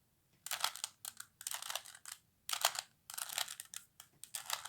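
Plastic 3x3x3 Rubik's Cube being turned by hand: about half a dozen quick clicking, rattling face turns with short pauses between them as a move sequence is carried out.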